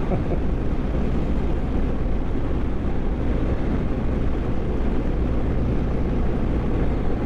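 BMW GS motorcycle running at road speed, its engine rumble mixed with steady wind rush over the rider's helmet microphone.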